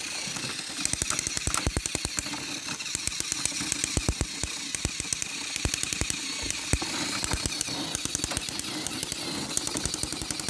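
Battery-powered toy Thomas the Tank Engine running under load, its motor and gears giving a fast, steady clicking rattle as it pulls against the other engine.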